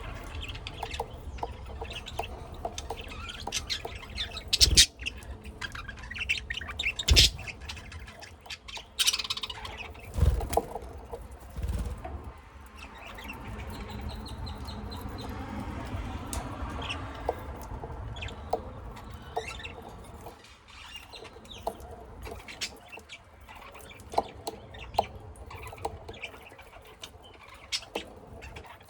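Pet budgies and lovebirds in a cage chirping and squawking, with short clicking calls throughout and a few loud knocks about a third of the way in.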